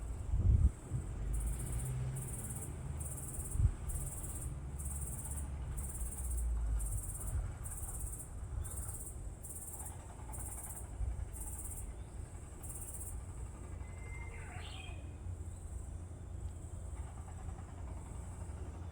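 An insect calling in a steady high-pitched pulse, about three pulses every two seconds, which stops about 13 seconds in. A low rumble runs underneath, and a short bird chirp comes about 14 seconds in.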